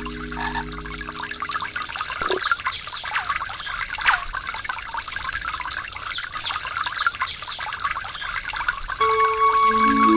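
Waterfall water running steadily, a constant rush with small splashes and gurgles. Soft music with held notes fades out about a second in and comes back near the end.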